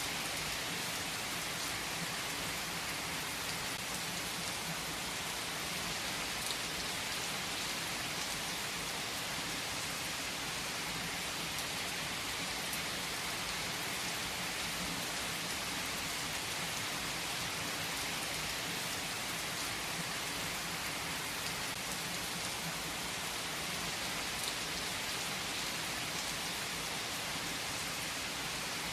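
Steady rain falling: an even hiss with a few louder single drops ticking now and then.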